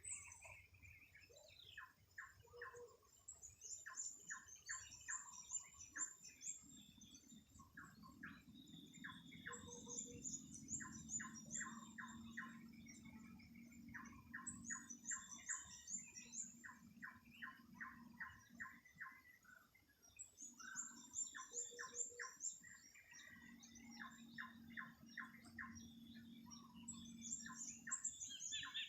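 Several birds calling: rapid runs of short mid-pitched calls and repeated high, thin chirp phrases every few seconds, faint, with a low steady hum under much of it.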